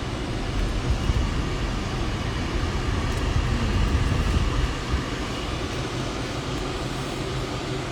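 Road and engine noise heard inside a moving car: a steady low rumble, somewhat louder for a few seconds in the middle.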